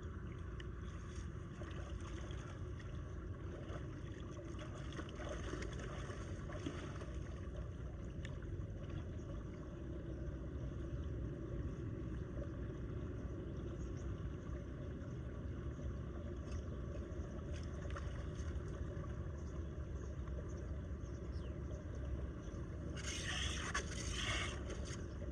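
Floodwater rushing steadily down into a storm drain, a low, even rumble of pouring water. A brief louder hiss comes near the end.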